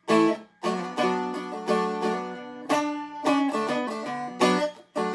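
Seagull Merlin M4, a four-string fretted dulcimer-style instrument, strummed and picked through chords and melody notes in a steady rhythm. Each strum rings on briefly before the next.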